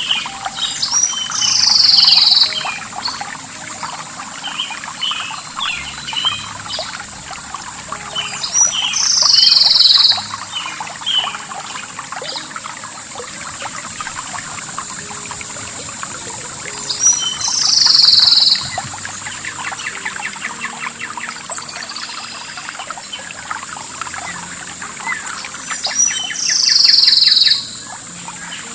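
Birds singing over running water: one bird repeats a loud, slightly falling call of about a second, four times at roughly eight-second intervals, with smaller chirps between. A steady high hiss runs throughout.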